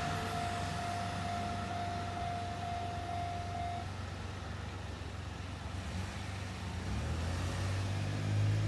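Road vehicles' engines running at the crossing as a low steady hum, growing louder near the end. A steady high tone stops abruptly about four seconds in.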